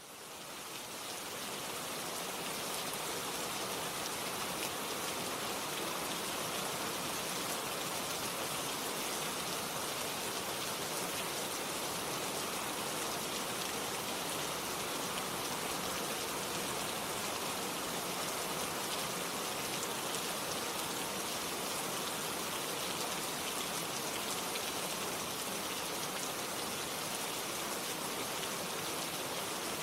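Steady rain falling, an even hiss of many drops, fading in over the first second or two and then holding level.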